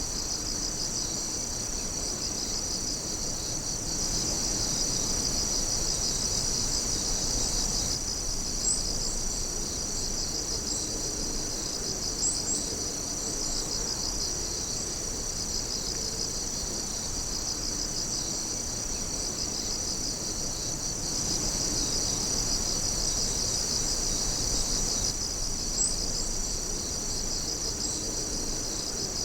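A chorus of night insects, crickets among them, trilling steadily in several overlapping high-pitched pulsing songs, with a few brief sharp chirps above them.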